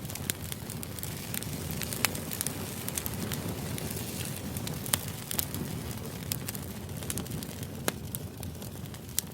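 Steady low rumbling background noise with scattered sharp crackles and clicks, like a crackling-fire white-noise ambience.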